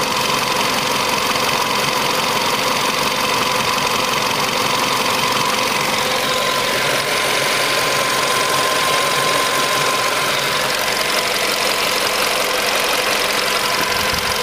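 VW Polo Sedan engine idling steadily, warmed up, with a steady whine over the engine noise.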